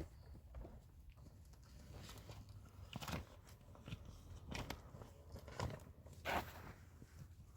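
A few scattered, irregular light crunches and scrapes, the loudest a little over six seconds in.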